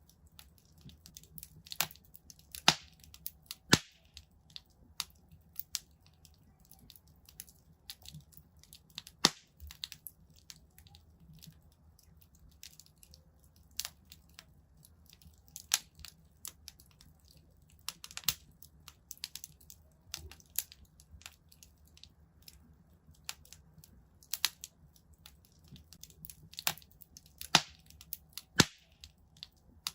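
Wood fire in a fireplace crackling, with irregular sharp pops and snaps, a handful of them much louder than the rest, over a faint low rumble.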